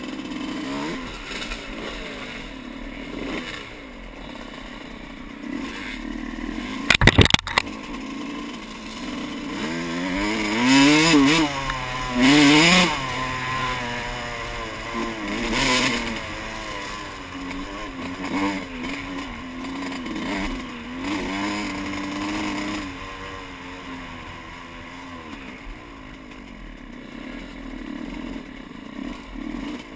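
Yamaha YZ125 two-stroke dirt bike engine under way, its pitch rising and falling as the throttle is worked, with the hardest revving in the middle. A short burst of loud clattering knocks comes about seven seconds in.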